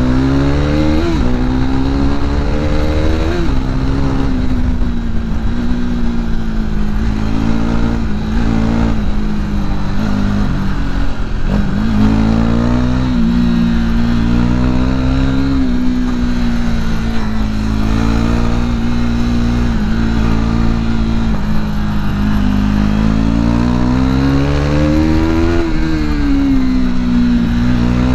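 Modified KTM RC 390's single-cylinder engine running hard under way. The engine note holds mostly steady and rises and falls back several times as the rider opens and eases the throttle.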